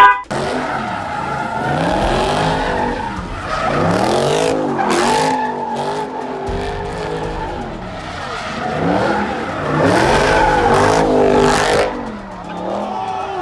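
A car engine revving up and down again and again, its pitch rising and falling in repeated swells, with tyres skidding and squealing.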